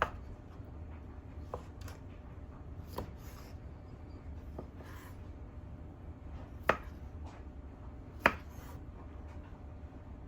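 Kitchen knife cutting on a cutting board: a few sharp knocks of the blade on the board at uneven intervals, the loudest at the very start and twice in the second half, over a steady low hum.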